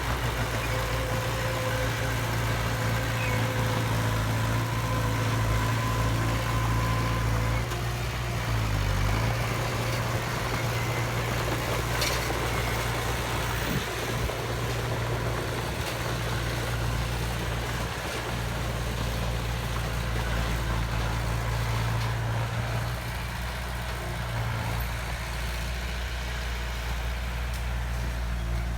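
Heavy diesel engine of a construction machine running steadily with a deep low drone, its pitch dipping briefly about eight seconds in; a single sharp click about twelve seconds in.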